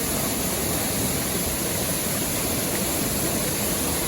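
Waterfall's rushing water: a steady, loud, unbroken rush of falling water.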